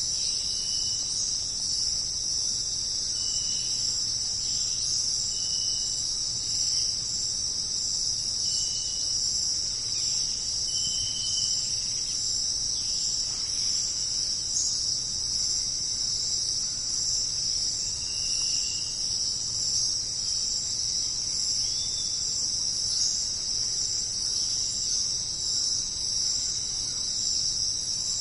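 Jungle insect chorus: a steady high-pitched shrill, with short higher chirps every few seconds, most of them in the first half.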